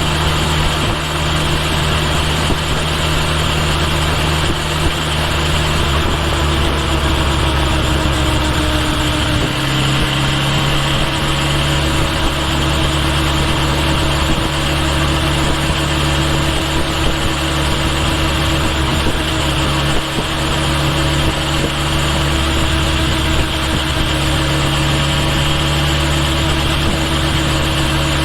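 Kawasaki Ninja H2 SX's supercharged inline-four engine running steadily, picked up by a microphone mounted at the rear turn signal. The engine note shifts lower about ten seconds in.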